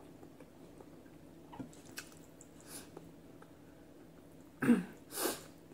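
Close-up chewing of food eaten by hand: soft wet mouth sounds and small clicks. Near the end come two louder short mouth sounds, the first the loudest.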